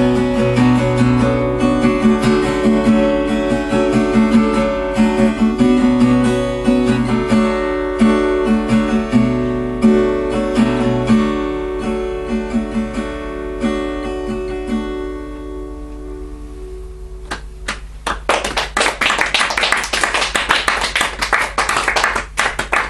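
Acoustic guitar playing the closing bars of a song without singing, the notes thinning out and ringing away; then audience applause breaks out near the end.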